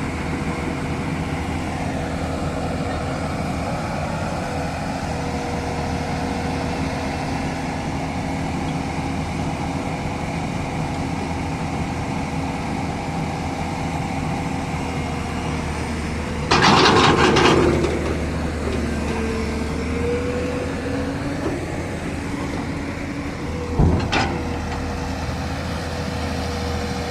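Heavy diesel machinery engine running steadily with a constant whine. A loud burst of noise lasts over a second about two-thirds of the way through, and there is a single sharp clank near the end.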